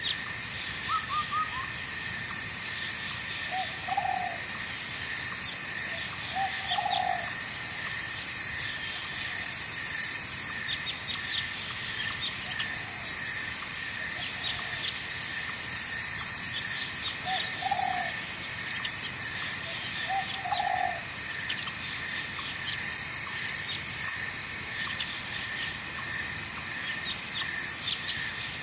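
Night forest ambience: a steady insect chorus with high-pitched trills that pulse on and off every few seconds, over the even rush of a babbling stream. An animal gives short low calls in two pairs, a few seconds in and again past the middle.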